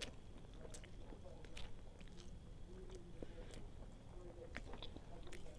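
Close-miked chewing of soft food, with irregular wet mouth clicks and smacks every half second or so.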